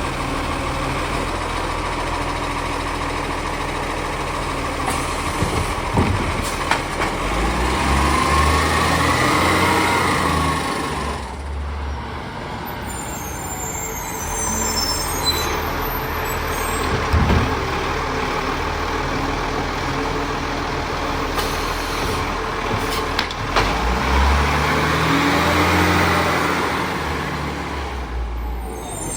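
Garbage truck engine idling, then revving up twice for a few seconds each time to drive the bin-lifting hydraulics, with a few sharp knocks in between.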